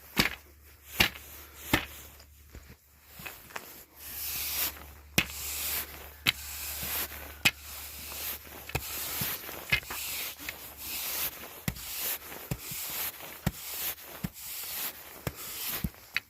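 Snow shovel pushing snow across a hard surface: repeated scraping strokes broken by sharp knocks of the blade.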